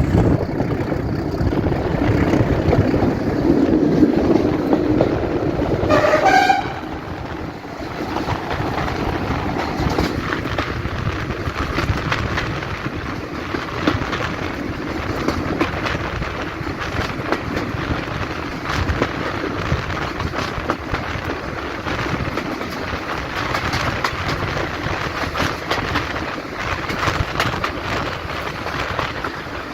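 Diesel locomotive engine running, with a short horn toot about six seconds in; after it, a quieter rumble and rattle of the train running on the line.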